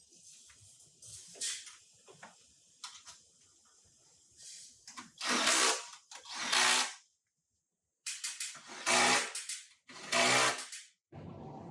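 A power tool running in four short bursts of about a second each, with lighter clicks and taps before them.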